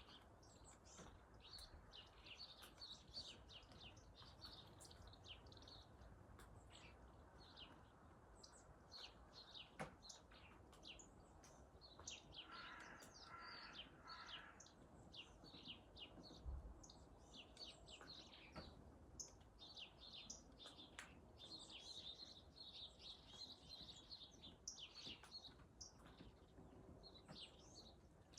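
Small birds chirping, many short high calls overlapping throughout, with a lower three-part call repeated a few times around the middle.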